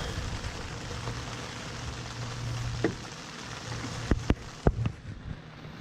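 Steady rain falling, with a faint low hum beneath it and a few sharp clicks and knocks, one about three seconds in and a cluster just past four seconds.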